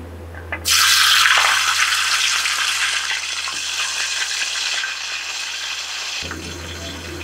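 Duck pieces hitting hot oil in a wok: a loud frying sizzle starts suddenly under a second in and then slowly eases while the pieces are stirred.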